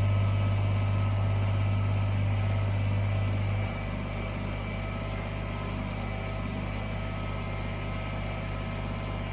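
Steady low machine hum with a few faint whining tones above it, dropping in level suddenly about three and a half seconds in and then running on evenly.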